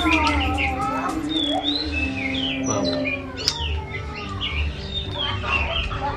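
Small birds chirping, many short high calls rising and falling throughout.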